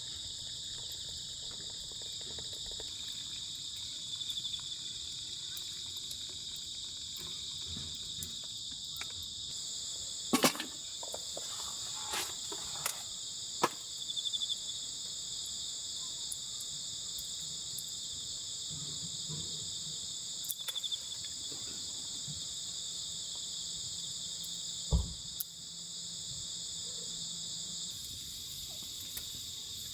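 A steady chorus of crickets and other insects chirring in several high pitches, unbroken throughout. A few sharp knocks and clicks sound over it, loudest about ten seconds in and again near 25 seconds.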